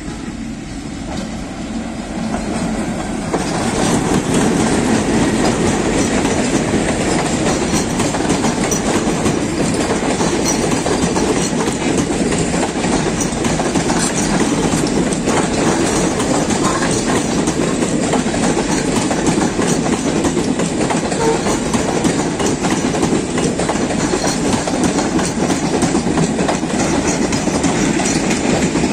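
Diesel-hauled passenger train of PT INKA coaches, drawn by an ALCO WDM-3A locomotive, grows louder over the first few seconds as it comes up close. Its coaches then roll past with a steady clatter of wheels over the rail joints.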